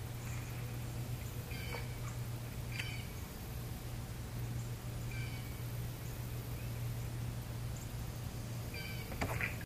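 A bird calls with short, high chirps every second or two over a steady low hum.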